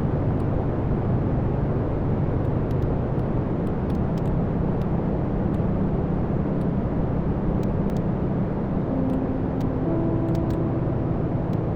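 Wood fire burning in a fireplace: a steady low rumble of flames with scattered sharp crackles and pops from the logs. A few faint whistling tones come in near the end.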